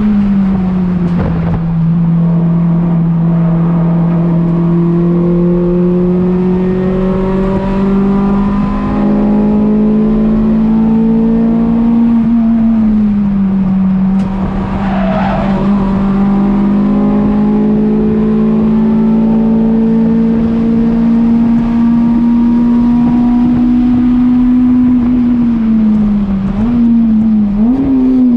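Acura RSX's four-cylinder engine running hard under load on a lap, its pitch held fairly steady. The pitch dips briefly about halfway through and wavers several times near the end as the revs change.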